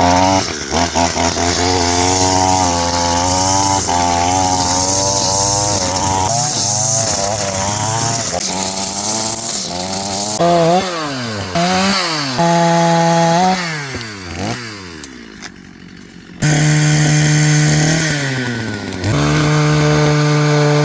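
Small petrol engine of a handheld clearing tool, revving up and dropping back over and over as it cuts through brush. The sound jumps abruptly a couple of times, and after about 14 s it sinks toward idle before coming back at full revs.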